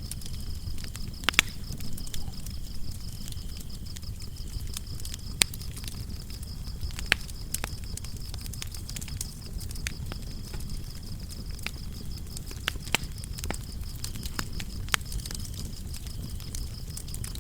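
Wood fire crackling, with sharp pops every second or two over a low rumble, the loudest about a second in and again about five seconds in. Behind it, crickets give a steady high trill.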